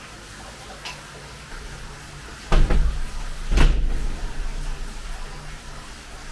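Two loud thumps about a second apart, each with a deep rumble that fades away over a second or two, over a faint steady hum.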